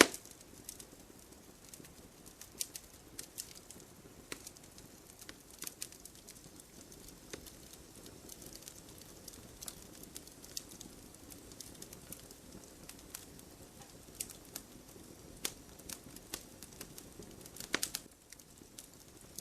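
Wood bonfire crackling: irregular sharp pops and snaps over a soft low hiss of burning, with a quick flurry of pops near the end.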